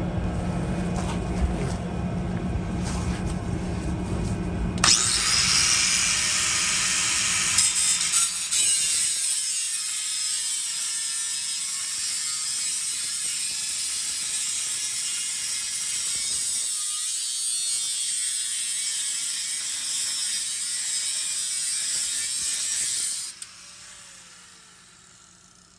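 Power tool cutting through the truck's exhaust pipe: a loud, steady, hissing cut that starts sharply about five seconds in and stops abruptly near the end.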